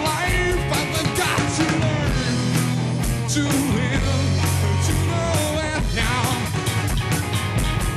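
Rock band playing a song, with a steady drum beat and a voice singing in places.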